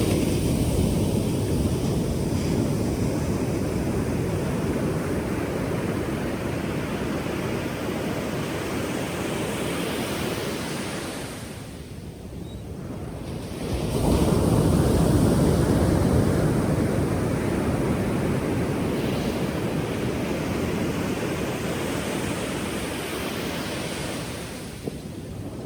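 Pacific Ocean surf: waves breaking and washing ashore in a steady deep rush. It eases off around the middle, and then a new wave crashes in and surges louder before slowly fading.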